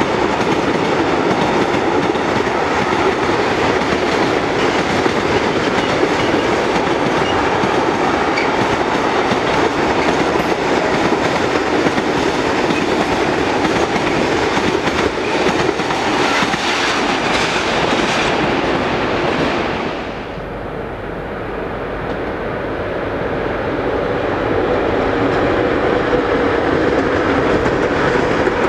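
Freight train wagons rolling steadily past on the rails. About twenty seconds in, the last wagons go by and the sound drops, then it slowly builds again as another train approaches.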